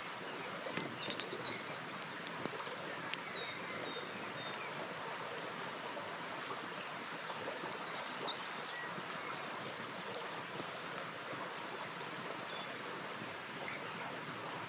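Steady rush of a flowing river, with a few sharp crackles and pops from a campfire and scattered brief bird chirps.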